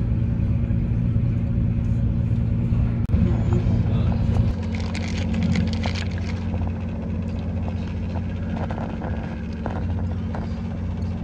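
Cross Country Voyager diesel train heard from inside the carriage: a steady low drone from its underfloor diesel engines and running gear. The sound changes abruptly about three seconds in and again a second or so later, where the shot cuts.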